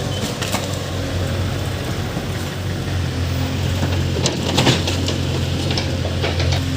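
Heavy diesel engine running steadily, with a few sharp knocks about half a second in, a cluster of them about four to five seconds in, and a few more near the end.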